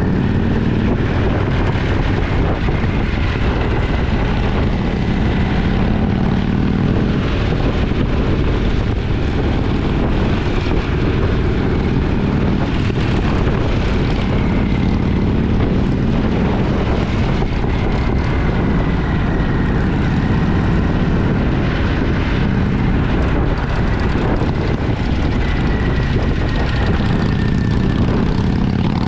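Motorcycle engine running at a steady cruise under heavy wind noise on the microphone, the low drone holding even without revving up or down.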